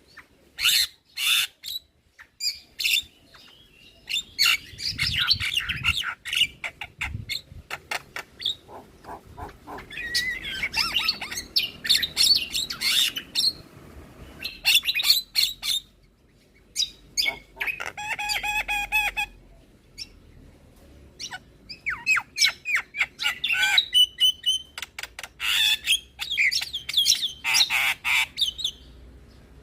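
Javan myna singing a long, varied song: rapid harsh chattering, squawks and clicks mixed with whistled notes, in bursts with short breaks.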